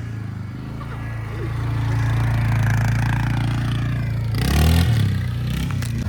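A vehicle engine running with a steady low drone that revs and changes pitch about four and a half seconds in.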